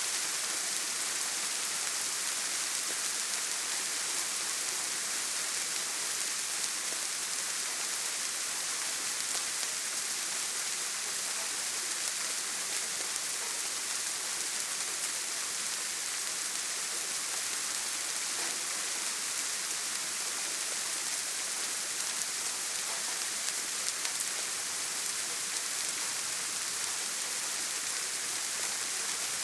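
Steady heavy rain on a tin roof: an even, unbroken hiss with no thunder.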